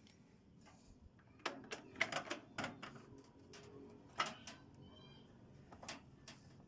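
Irregular clicks and knocks of tools and metal parts being handled while a microwave oven is taken apart, with a brief squeak about five seconds in.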